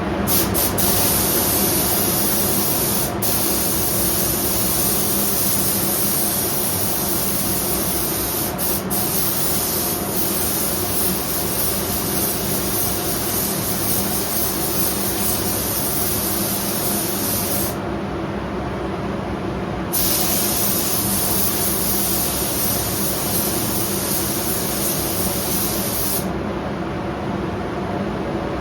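Paint spray gun hissing as it sprays clear coat, in one long pass of about eighteen seconds, a break of about two seconds, then another pass of about six seconds. Under it the paint booth's ventilation fan runs steadily.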